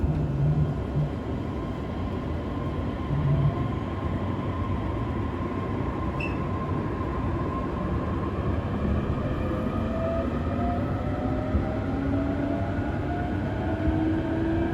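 JR E531 series electric train running, its wheels and track giving a steady rumble, with the whine of its Hitachi IGBT inverter and traction motors rising steadily in pitch from about two-thirds of the way in as the train gathers speed.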